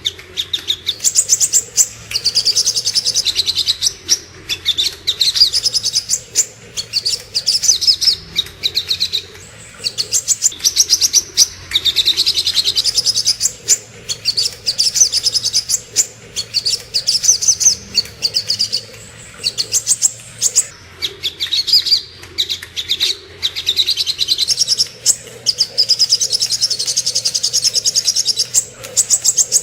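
Sogok ontong songbird singing: fast, high chirping phrases a few seconds long, repeated over and over with short pauses between them.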